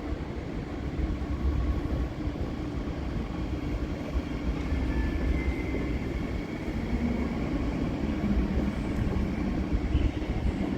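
A train running at a station platform: a steady low rumble with a faint steady hum and a brief, faint high whine about halfway through.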